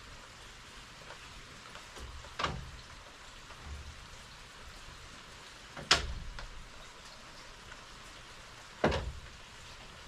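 Three sharp knocks, well spaced, from the wooden kayak frame being handled while its stringers are lashed to the forms with waxed cord, over a steady hiss.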